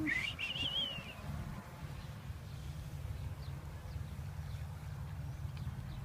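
A bird calls once at the start with a wavering, rising whistle lasting about a second. Faint short chirps follow over a steady low rumble.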